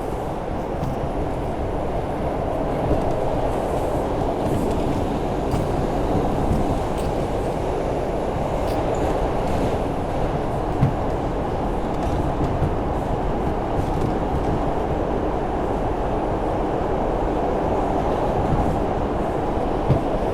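R142 subway train running at speed between stations, heard from inside the car: a steady rumble of wheels and motors. A few short sharp knocks come through, near the start, about halfway and near the end.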